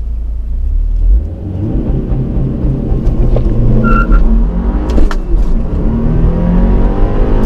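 A 2022+ Subaru WRX's turbocharged 2.4-litre flat-four accelerates hard from a launch-control start, heard from inside the cabin. Its pitch climbs steadily, breaking briefly at quick flat-foot shifts about five seconds in and again near the end. The shifts are very smooth.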